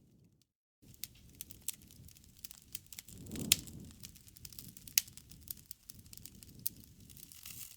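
Crackling wood fire: a low rumble of flames with irregular sharp pops and snaps, the loudest two a second and a half apart, after a brief gap near the start.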